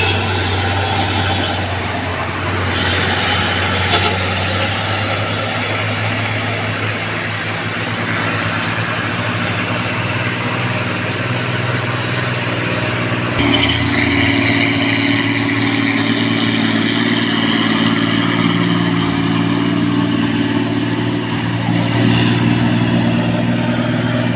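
Heavy diesel truck engine labouring steadily up a steep hill under load. The engine note changes about halfway through.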